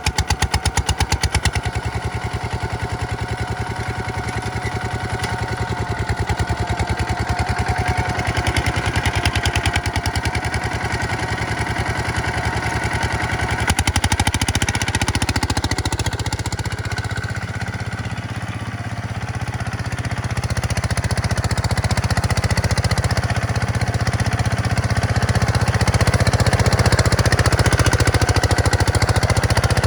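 Diesel farm tractor engine running hard. It dips in level about two-thirds of the way through, then comes back louder toward the end.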